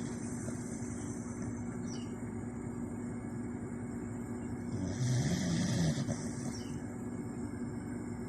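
A sleeping dog snoring: one snoring breath lasting about a second, about five seconds in, part low rumble and part breathy hiss, with quieter breathing either side.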